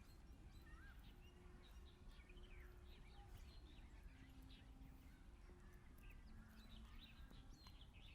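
Faint outdoor ambience with many small birds chirping in quick, short calls over a steady low rumble.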